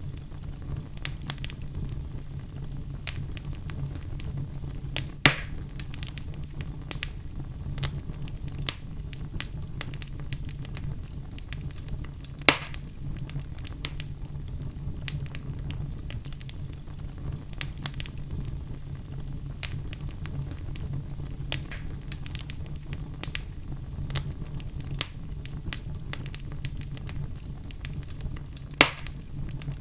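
Wood logs burning in a fireplace, crackling steadily with many small snaps over a low steady rumble. Three much louder pops stand out: about five seconds in, near the middle, and near the end.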